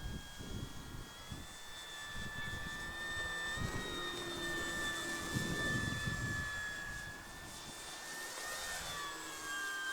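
Small electric RC model airplane (Durafly Slow Poke) motor and propeller whining steadily. The pitch edges up through the first half, is loudest in the middle and drops near the end. Wind rumbles on the microphone underneath.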